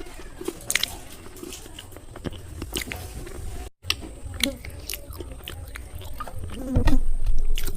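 Slate pencils being bitten and chewed, with sharp, brittle crunching clicks. There is a brief break about four seconds in, and heavier, louder chewing near the end.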